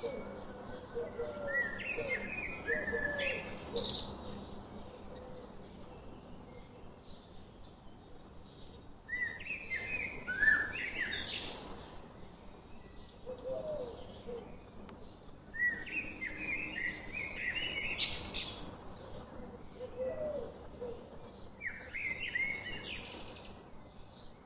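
Birds singing: one bird repeats a phrase of quick, high notes four times, about every six to seven seconds, while another bird gives short, lower-pitched calls in between.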